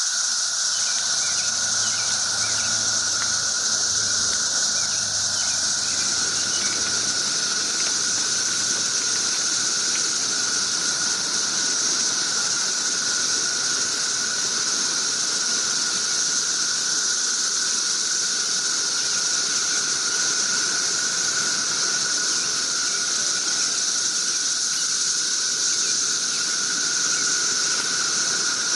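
Dense chorus of cicadas: a loud, steady, shrill drone that holds unbroken throughout.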